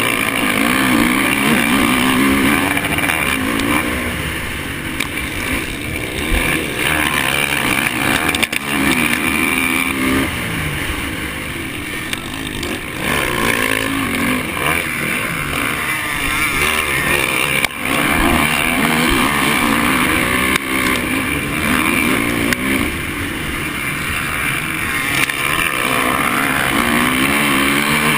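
Honda 450 four-stroke motocross bike engine being ridden hard, revving up and falling back over and over, its pitch rising and dropping with each throttle burst.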